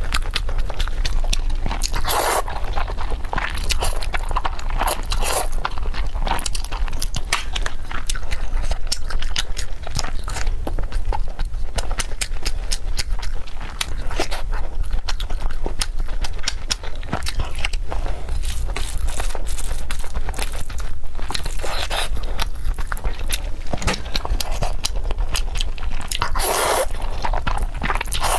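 Close-miked chewing and biting of food: a dense, continuous stream of crunchy clicks and wet mouth sounds.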